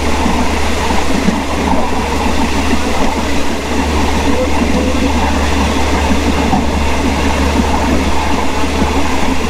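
Steady running noise of a moving train heard from inside its passenger coach: wheel and track noise over a constant low hum, with no distinct clicks.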